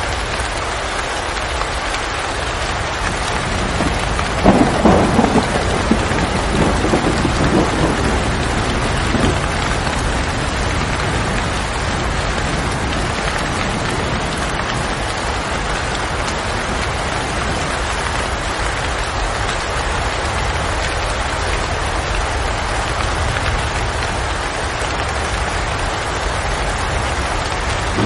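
Steady rain with a rumble of thunder that swells about four and a half seconds in and rolls on for several seconds.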